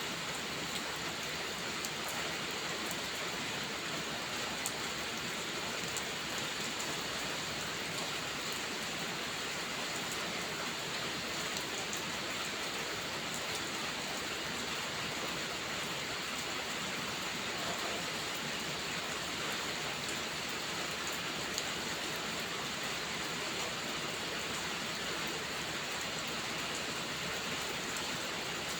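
Steady rainfall: an even, unbroken hiss with scattered light ticks.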